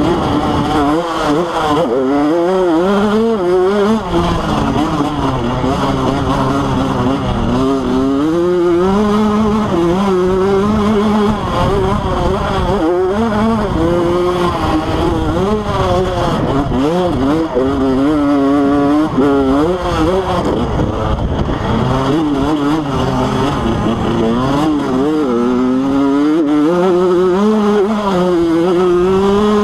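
Motocross bike engine being ridden hard, revving up and dropping back over and over as the rider works the throttle and shifts, its pitch rising and falling every second or two.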